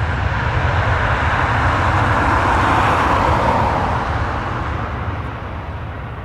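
Jet airliner passing on or near the runway: a broad engine rumble and roar that swells to a peak about three seconds in, then fades.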